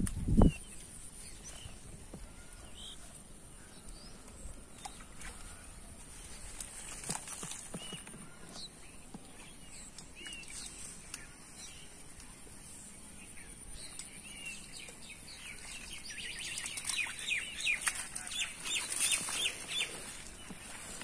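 Birds calling, sparse at first, then a burst of rapid short calls near the end, over a steady high hiss. A single thump sounds just after the start and is the loudest thing.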